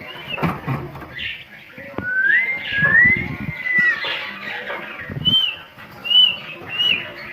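Bird whistles and chirps: one long rising whistle in the middle, then three short, high, falling chirps near the end, with a few low thumps of handling noise.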